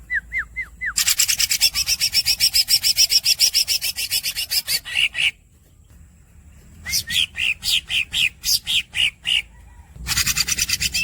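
Green leafbird (cucak ijo) singing. It opens with a few short falling whistled squeaks, then a long, fast, rasping roll of about seven notes a second lasting some four seconds. After a pause comes a run of sharp chattering notes, and another fast roll starts near the end.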